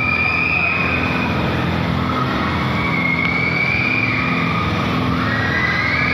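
A machine running steadily, with a low hum and a high whine that slowly dips and rises in pitch.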